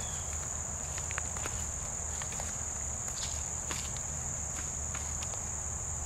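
Steady, high-pitched chirring of insects, with scattered light clicks and rustles, like footsteps, over it.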